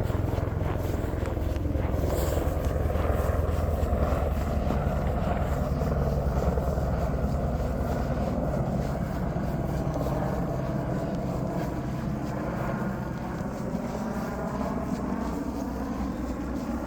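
A motor engine running with a steady low drone, slowly fading as it moves away.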